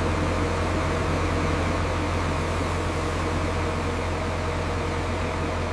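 Heavy machinery engine running at a steady speed: a constant low drone with a hiss over it, starting abruptly.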